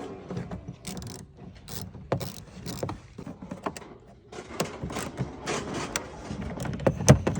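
Scattered metal clicks, knocks and rattles of a new chrome door handle being worked into a pickup's door and lined up with its bolt hole, with one sharp click near the end.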